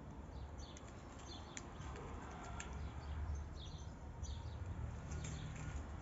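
Faint chirps of small birds over a low steady rumble, with a couple of soft clicks.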